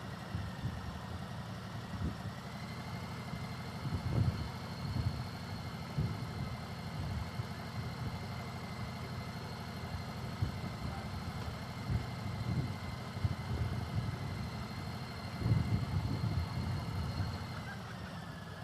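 Motorcycle engine idling and running at low speed, with a faint steady high whine through most of it. The rumble swells briefly twice, about four seconds in and again near the end.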